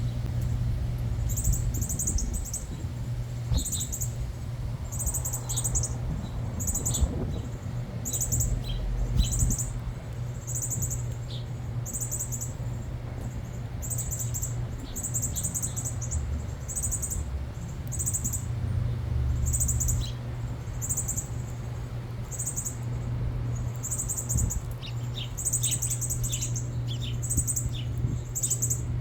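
Backyard birds chirping: short, very high, buzzy calls repeating about once a second, with a few lower chirps mixed in, over a steady low hum.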